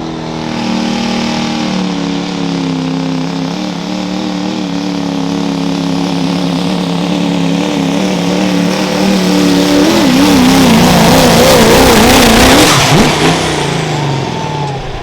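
Diesel pickup truck engine at full power pulling a weight sled, its note held steady and then wavering and getting louder about two-thirds of the way through. The engine cuts back a couple of seconds before the end.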